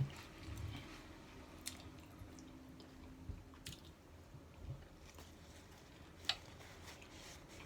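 Faint chewing and wet mouth sounds of someone eating a taco close to the microphone, with a few short sharp clicks, the loudest near the end.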